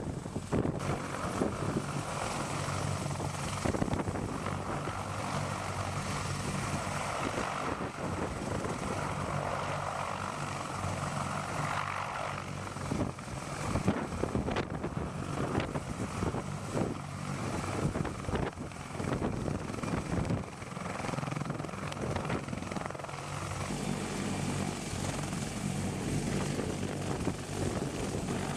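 CH-53K King Stallion heavy-lift helicopter running, a steady low drone of engines and rotor.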